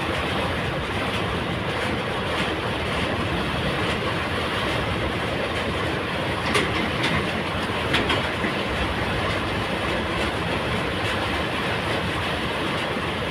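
Heavy diesel machinery running steadily, with short metallic knocks about six and eight seconds in.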